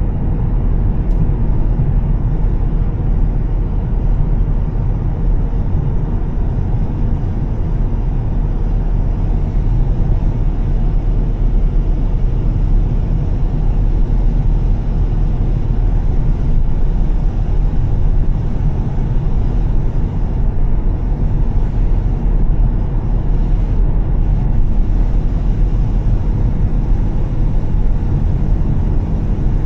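Volvo S60 T6's turbocharged straight-six with a Heico aftermarket exhaust, cruising steadily: a constant low drone with tyre and road noise on wet pavement, no gear changes or revving.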